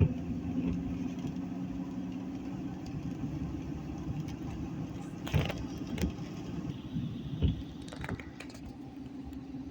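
Car driving, a steady low drone of engine and road noise, with a few short knocks in the second half.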